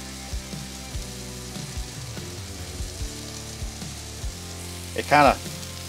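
Beyond Burger plant-based patties frying on a hot Blackstone flat-top griddle: a soft, light frying hiss rather than a meat sizzle. Under it runs background music with a low bass line, and a brief voice sounds about five seconds in.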